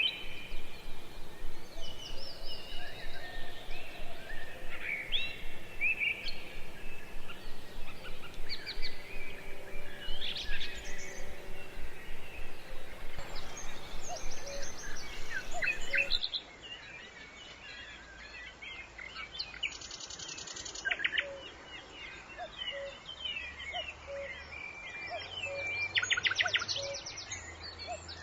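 Several birds chirping and calling, with many short rising and falling notes. About halfway through, the sound changes abruptly and gets quieter, as at an edit, and later holds two rapid trills.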